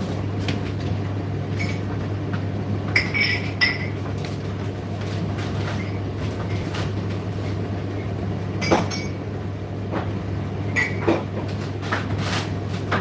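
Indesit IDC8T3 condenser tumble dryer running with a steady low hum from its motor and turning drum, broken by a few sharp clinks and knocks as the load tumbles.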